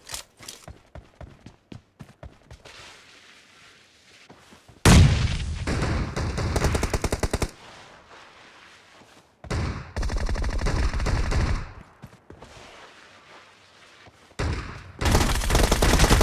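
Automatic gunfire in a first-person shooter video game. Three long bursts of rapid shots come about five, ten and fifteen seconds in, with faint short clicks and steps between them.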